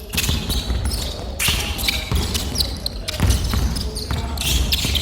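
Basketball being dribbled hard on a court floor during one-on-one play, a run of sharp thuds, with short high squeaks among them.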